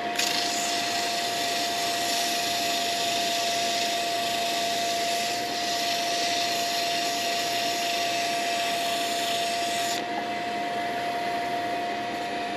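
Wood lathe running with a steady whine while 600-grit sandpaper is held against the spinning pen blank, giving a loud even sanding hiss. The hiss stops about ten seconds in while the lathe keeps running.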